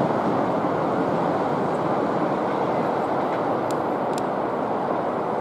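Tokyo Metro 03 series subway train, the VVVF-controlled set, running past on curved track: a steady rumble of wheels on rail that slowly fades, with a couple of faint sharp clicks a little under halfway through.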